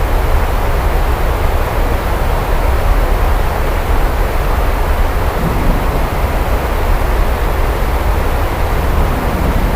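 Heavy rain falling steadily, with a continuous deep rumble underneath.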